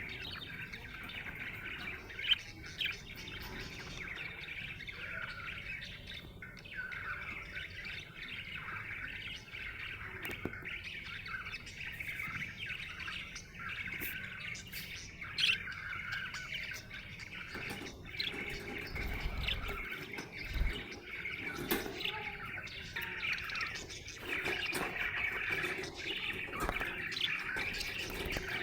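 Budgerigar chirping and warbling without a break, a busy run of quick high chirps, the chatter of a happy budgie, with a few sharp clicks among them.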